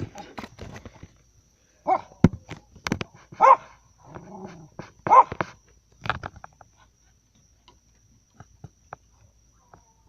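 A dog giving several short barks and yips over the first six seconds or so, then falling quiet apart from a few faint clicks.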